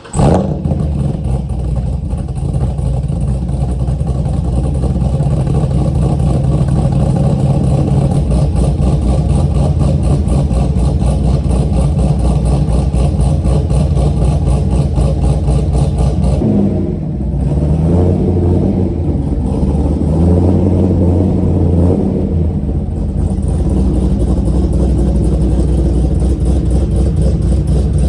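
Cammed GM LS2 6.0-litre V8 catching from a cold start and running at a fast idle with a choppy, pulsing lope. About sixteen seconds in, the idle shifts and wavers before settling again.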